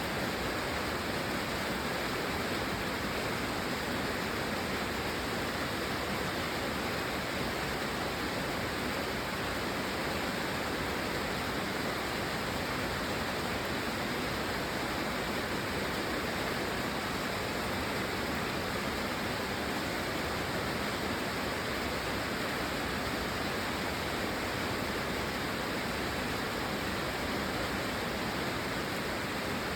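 Steady, dense rain: an even, unbroken hiss with no single drops or gusts standing out.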